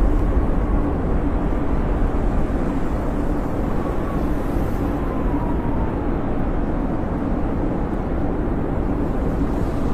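Howling snowstorm wind: a steady, deep rushing rumble with a faint whistle that slides slowly down in pitch about midway.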